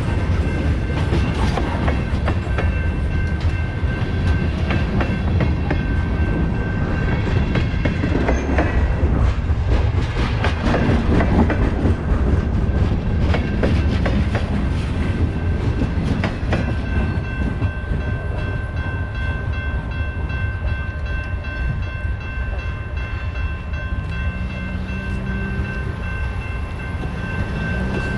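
Freight train cars rolling past in a continuous heavy rumble, the wheels clicking over rail joints, with a thin steady high-pitched ring running over it.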